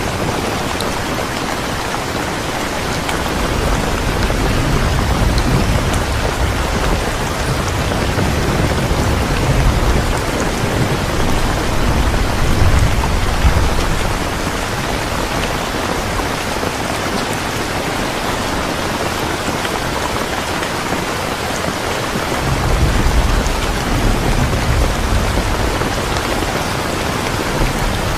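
Steady rain, with low rumbles of thunder swelling up three times.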